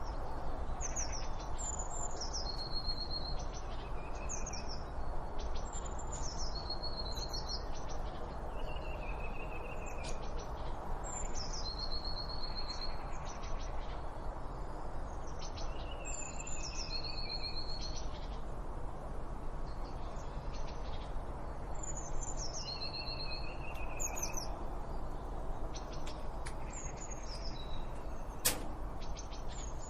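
A songbird repeating a short, high whistled phrase every few seconds: a few quick descending notes ending on a held note, over a steady low background hiss. One sharp click near the end.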